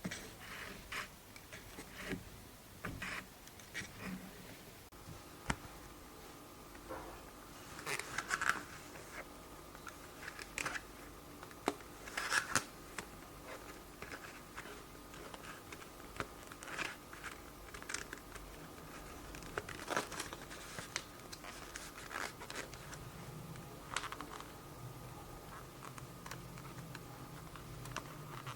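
Hand leatherworking: irregular scrapes, taps and rustles of tools and leather being handled, with a few sharper clicks standing out now and then.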